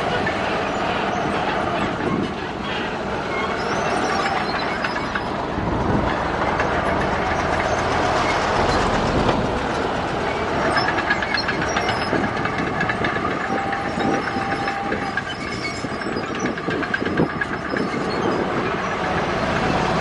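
Bulldozer at work: its diesel engine running under the steady clanking and squealing of its steel crawler tracks.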